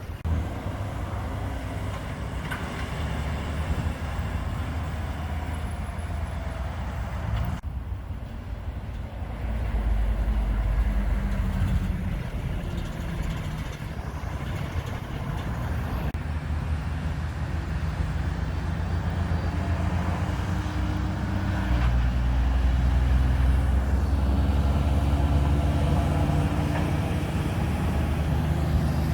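Heavy diesel trucks running on the road, engines rising and falling in pitch as they pass, with general traffic noise.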